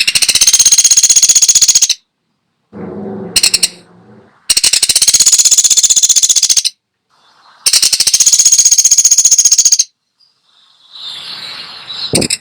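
Woodpecker giving loud, rapid rattling call trains, three of them about two seconds each, with short pauses between.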